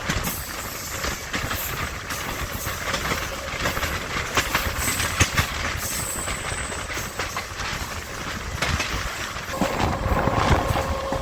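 MEMU electric train running on the track, its wheels clicking over rail joints over a steady rushing hiss. A steady whine joins in near the end.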